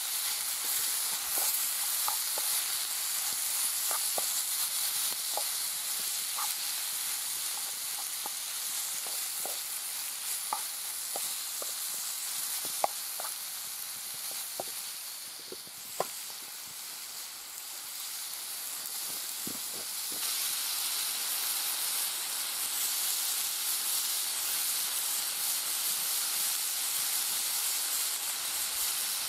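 Chicken, red peppers and mushrooms sizzling steadily in a frying pan, with scattered small pops and clicks and the occasional stir of a wooden spoon.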